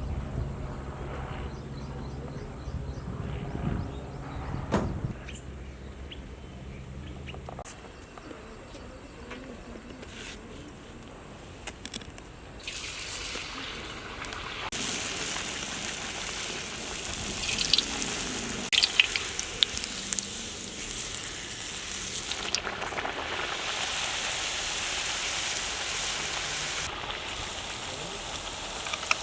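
Deep-frying in hot oil in a kadai: a low hum and a few knocks, then from about halfway an even sizzling hiss, loudest in the middle of the second half, with a few sharp crackles.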